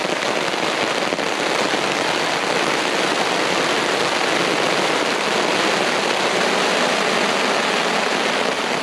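Heavy rain pouring down onto a tarp overhead, a dense, steady hiss.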